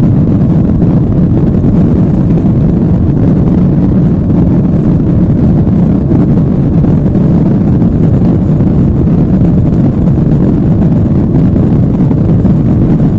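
Boeing 737 jet engine running steadily after start: a loud, even low rumble with no changes.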